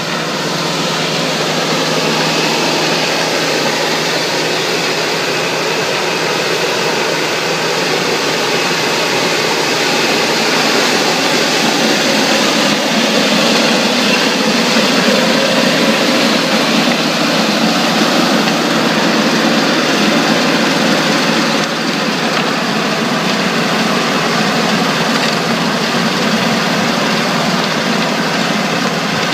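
Tractor engine running steadily under load while pulling a Cross Slot direct drill through a standing mustard crop.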